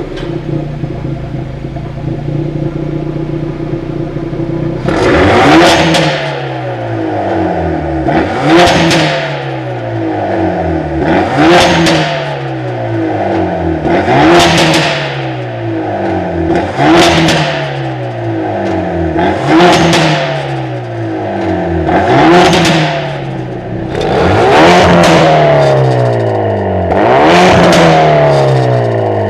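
Hyundai Veloster N's turbocharged 2.0-litre four-cylinder through a mid-pipe exhaust, idling for about five seconds, then blipped about nine times, one rev every two to three seconds. Each rev rises and falls in pitch, with popping and crackling from the exhaust as the revs drop.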